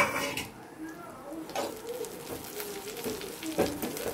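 Drumstick (moringa) leaves sizzling as they fry in hot ghee in a pan, with a loud burst of sizzle as they hit the fat at the start. A spatula stirs them, making scattered clicks against the pan.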